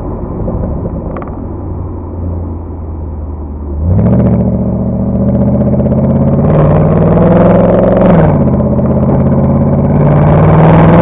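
Mercedes C63 exhaust idling, then revved: about four seconds in the revs step up and hold, climb higher around six and a half seconds, fall back about eight seconds in, and rise again near the end.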